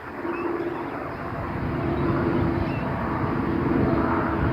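A steady, distant engine drone with a low hum, slowly growing louder.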